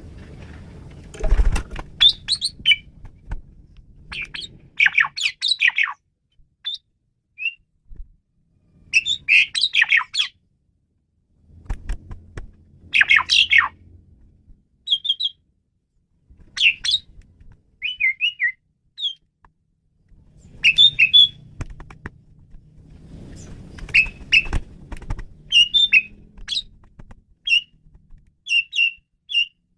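Asian pied starling (jalak suren) singing: repeated bursts of chattering, squawky and whistled notes with short pauses between phrases, over a faint low hum under some of them.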